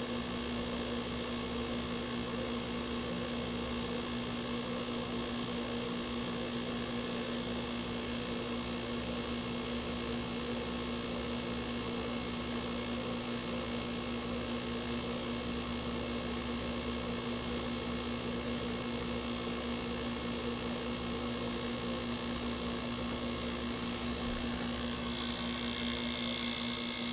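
Window air conditioner running on test: a steady hum with a strong low tone from its rotary compressor, over an even hiss that grows brighter near the end.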